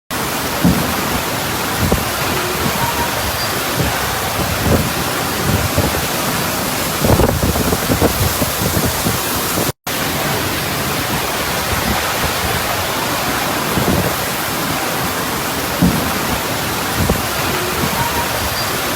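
Heavy rain pouring steadily with a dense, even hiss, while strong wind gusts buffet the microphone with short low rumbles every second or two. The sound cuts out for a split second about halfway through.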